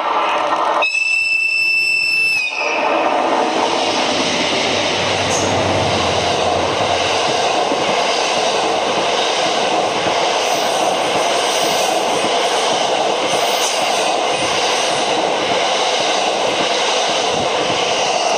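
A JNR Class EF81 electric locomotive sounds a long whistle, one high held note for just under two seconds. Then the locomotive and its E26-series sleeper cars pass close at speed, a steady loud rush of wheels and air.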